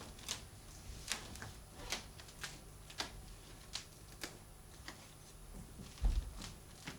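Irregular sharp clicks and taps, roughly two a second, with a dull low thump about six seconds in.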